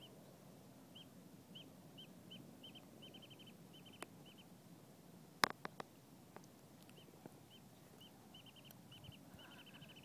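Faint song of a small bird: short high chirps, spaced out and then speeding up twice into a quick trill. A few sharp clicks about halfway through are the loudest sounds.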